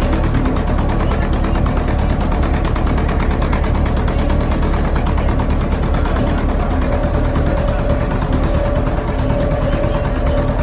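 Tractor engine running steadily with a low rumble. A steady whine joins in about seven seconds in.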